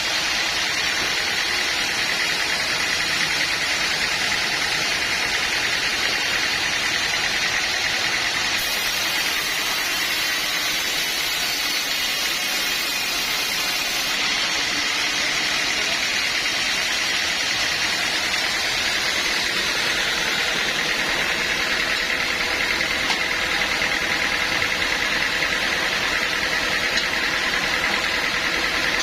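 Sawmill machinery running steadily: a continuous mechanical hiss with a steady high whine, unbroken throughout.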